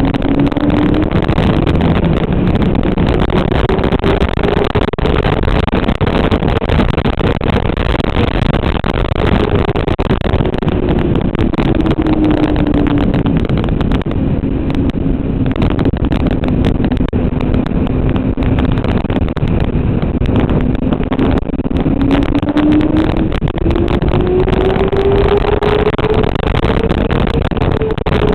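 Motorcycle engine running at speed under heavy wind noise on the microphone. Its pitch climbs for the first few seconds, drops off, holds lower and steady through the middle, then climbs again and falls away near the end.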